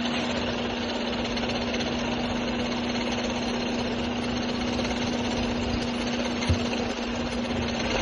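Seat Ibiza Cupra 1.4 TSI four-cylinder turbo petrol engine running at a steady speed, with a steady hum over a busy mechanical clatter: the weird engine sound the owner is asking about. A single short knock about six and a half seconds in.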